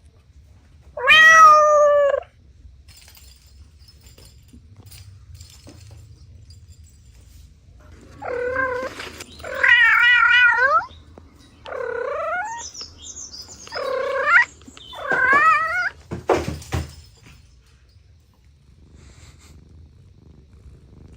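Cats meowing: one loud meow about a second in, then a run of about five meows in quick succession later on, with a short rough noisy sound right after the last one.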